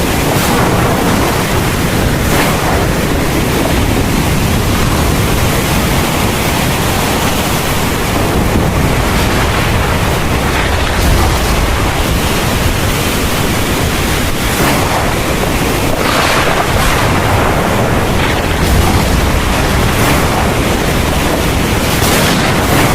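Heavy rain pouring steadily in a thunderstorm, a dense even hiss. Low thunder rumbles swell up about halfway through and again a few seconds before the end.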